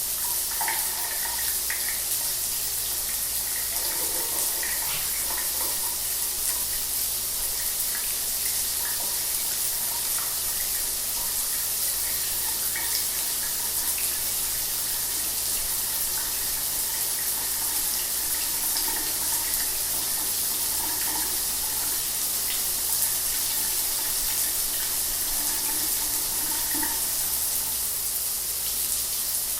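Shower water running steadily and hissing, with faint splashing throughout.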